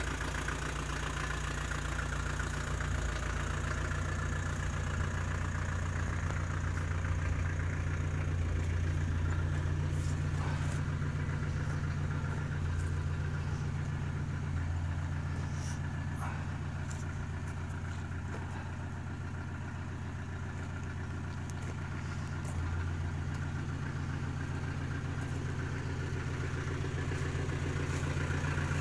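Series Land Rover engine idling steadily.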